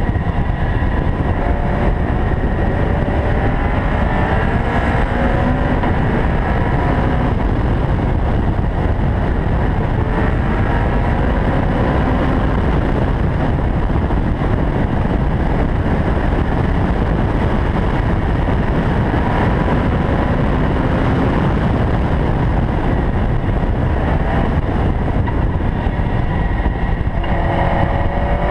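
Caterham R500's engine running hard at speed, its note climbing in pitch again and again and dropping back as it pulls through the gears, with a steeper climb near the end. A heavy, steady rumble of wind and road noise runs underneath.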